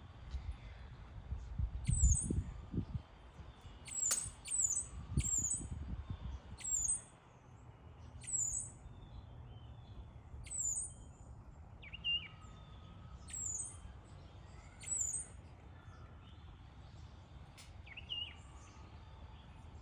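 Sparrow chirping: a series of short, high-pitched chirps at irregular intervals, with a couple of lower chirps later on. Two low rumbling bumps, the loudest sounds, come in the first few seconds.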